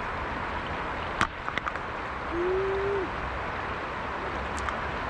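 River water rushing steadily. A sharp click comes about a second in, followed by a few lighter ticks, and a short single-pitched tone sounds briefly near the middle.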